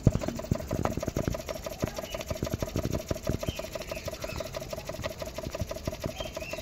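Small model rocker steam engine running on exhaust steam from a Jensen 75 live steam engine: a steady, fast mechanical ticking and clatter.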